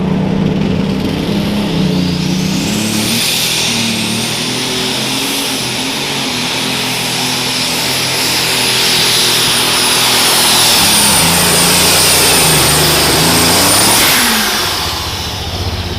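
Unlimited super stock pulling tractor under full power on a pull, its engine running hard with a high, thin turbo whine. The whine climbs over the first few seconds, holds, and falls away near the end as the tractor comes off the throttle.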